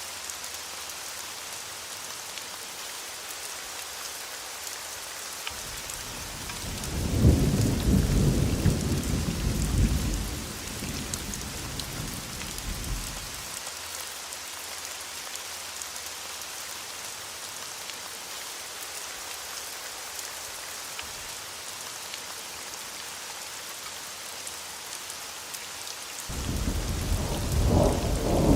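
Steady heavy rain with two rolls of thunder: a long rumble building about six seconds in and fading over several seconds, and another starting near the end.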